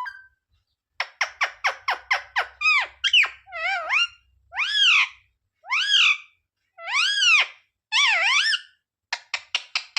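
Pet parrot calling: a quick run of short, sharp screeches, then a series of longer rising-and-falling squawks, then another quick run of short screeches near the end.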